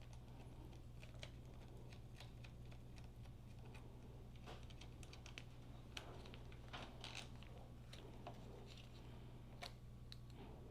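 Faint, irregular light clicks and taps of hand tools and small parts being handled, with a few quick clusters of clicks in the middle, over a steady low hum.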